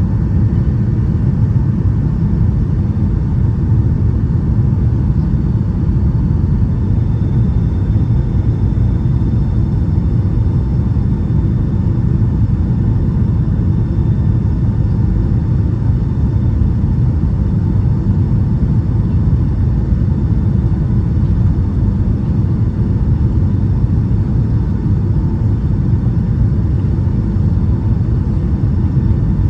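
Cabin noise inside a Boeing 757-200 airliner: a steady, loud low rumble of engines and airflow that stays even throughout. A faint thin high tone joins about seven seconds in.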